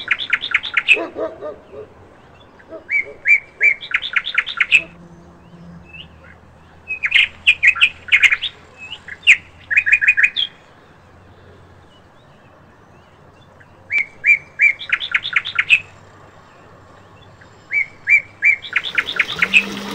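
A songbird singing the same short phrase over and over, about six times with pauses in between. Each phrase is a few separate notes followed by a quick run of higher notes.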